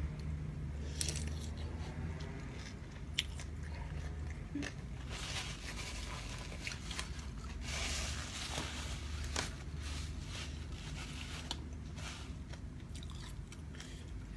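A person chewing and crunching food close to the microphone, with many scattered crisp bites and clicks and stretches of noisier crunching in the middle.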